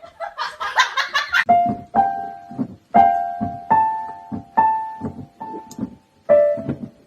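Piano or keyboard notes struck singly, unevenly spaced about half a second to a second apart, each with a dull thump under it and a short ring. A quick flurry of higher, clicking strikes comes first.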